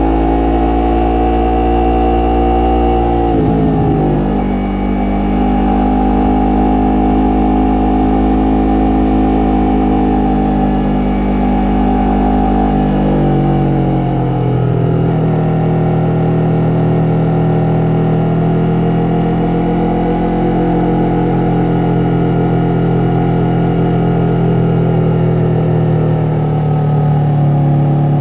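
Yamaha MT-03 motorcycle engine and exhaust under way, its pitch dropping sharply twice, about three seconds in and again near the middle, then holding steady.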